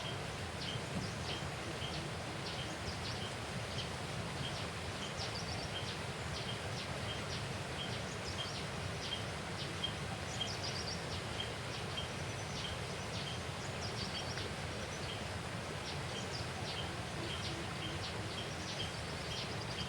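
Birds calling: a short chirp repeated about twice a second, with other brief, higher calls and trills over it, against a steady outdoor background hiss.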